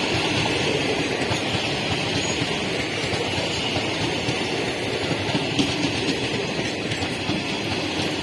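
Indian Railways express train's sleeper coaches rolling past, a steady rumble of wheels on the rails with one brief louder knock about five and a half seconds in.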